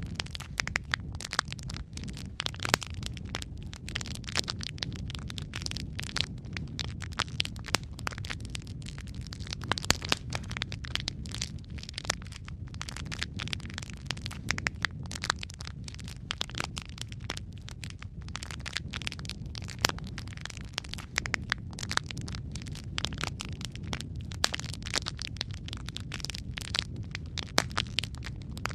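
Wood fire crackling steadily: a dense run of irregular sharp pops and snaps over a low rumble of flame.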